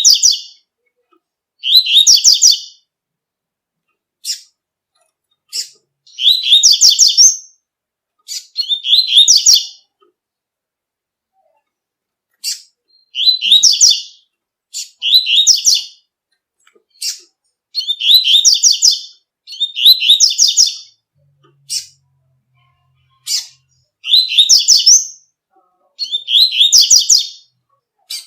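Double-collared seedeater (coleiro tui-tui) singing: short bright high phrases of about a second each, repeated every couple of seconds, with single sharp chip notes between them.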